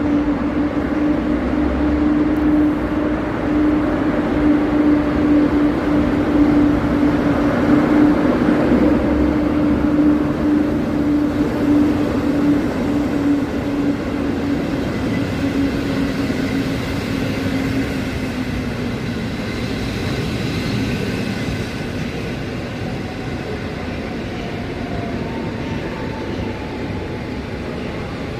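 EP07 electric locomotive with its train: a steady electric hum over rumbling running noise. The hum sinks slightly and fades about two-thirds of the way through, and a faint higher tone comes in near the end.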